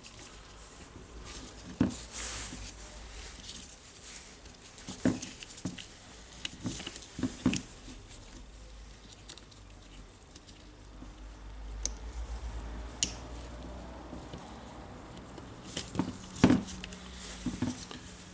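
Irregular small clicks, taps and rustles of hands handling plastic housing parts and wires while reassembling a cordless rotary hammer; a sharper click stands out about 16 seconds in.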